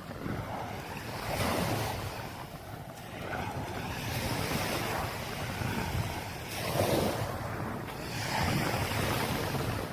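Surf washing onto a sandy beach, the noise swelling and easing every couple of seconds, with wind buffeting the microphone.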